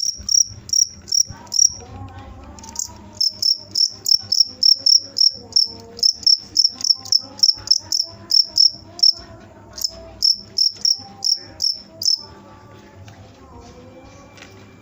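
Cricket (jangkrik) chirping in a fast, even series of shrill pulses, about three to four a second, with a brief pause about two seconds in; the chirping stops abruptly near the end.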